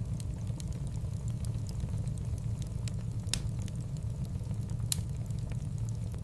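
Wood fire in a fireplace crackling: a steady low rumble of flames with scattered sharp pops, two louder ones about three and five seconds in.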